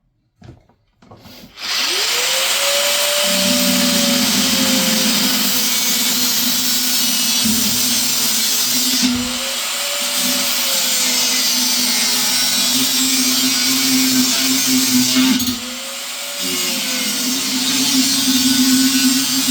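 Power tool with a cutting disc spinning up and cutting into the boiler's housing. It makes a loud, steady whine whose pitch sags as the disc bites, and it eases off briefly twice: about halfway through and a few seconds before the end.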